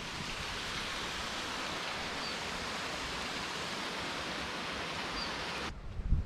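Steady rush of falling water from a waterfall: an even, continuous hiss that cuts off suddenly near the end, followed by a low rumble and a thump.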